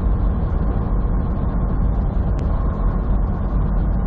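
Steady drone of a semi truck's engine and road noise heard from inside the cab while driving at highway speed, deep and unbroken.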